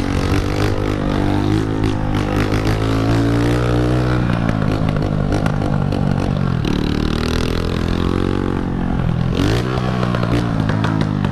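Honda CG 125 single-cylinder motorcycle engine with a loud exhaust, accelerating through the gears: the pitch climbs, then drops at each upshift, about four, six and a half, and nine seconds in.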